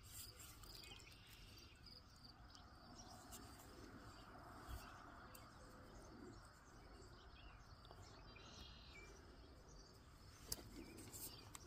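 Near silence with faint bird chirps and calls in the background, and a single soft click near the end.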